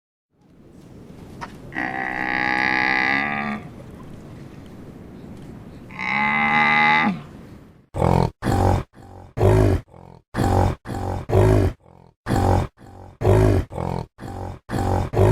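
A cow mooing: two long, drawn-out calls a few seconds apart. Then a different animal gives a quick, regular run of short, deep grunts, about two a second.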